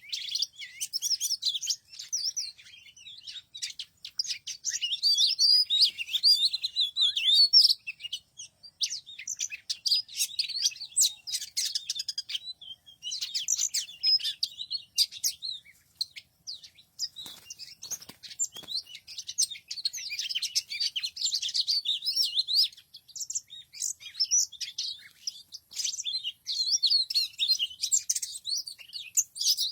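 Small songbirds chirping and twittering rapidly and almost without pause, in quick high trills and glides, with a few faint taps a little past the middle.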